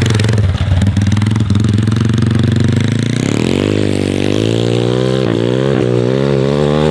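MRF 140 TTR pitbike's single-cylinder four-stroke engine running, its pitch rising about three seconds in and then wavering up and down as the throttle is worked.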